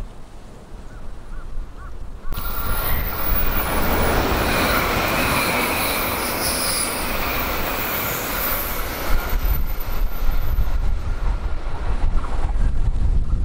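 A 700 series Rail Star Shinkansen passing close by: a loud rush of air and wheels on rail that cuts in abruptly a couple of seconds in. After about nine seconds it gives way to a low rumble with gusts of wind buffeting the microphone.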